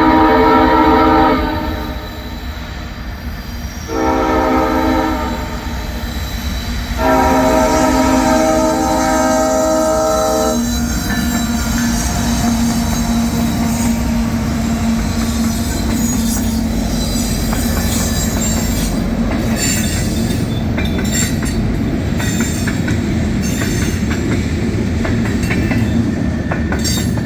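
Lead locomotive's S5T multi-chime air horn blowing for a grade crossing: one blast ends about a second in, a shorter one follows, then a longer one. After that the freight train rolls past with a steady low rumble, a droning engine note, and wheels squealing and clicking over the rails.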